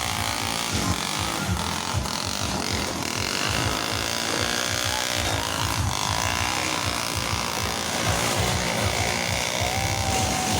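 Motocross dirt bike engines running and revving, a steady mechanical drone.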